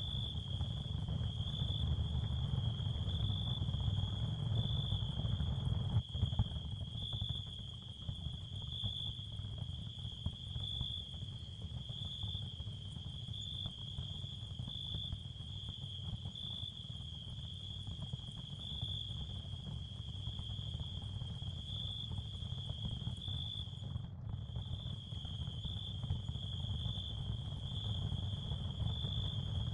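Ambient nature sound bed: crickets chirring in a steady, gently pulsing high band over a low rumble and faint hiss.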